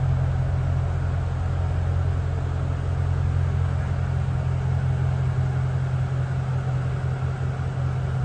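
2003 Mercedes-Benz SL 500's 5.0-litre V8 idling steadily, a low even hum.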